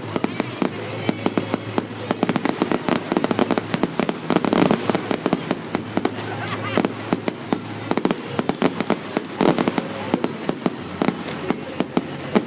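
Fireworks going off in a display: a dense run of sharp bangs and crackles, packed most thickly about four and a half seconds in and again near nine and a half seconds.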